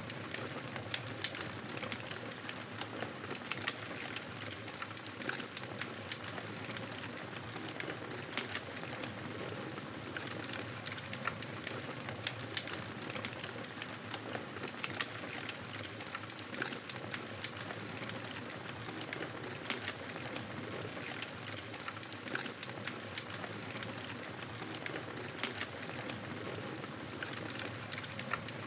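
Fireplace wood fire crackling: a steady hiss with frequent small, irregular pops and snaps.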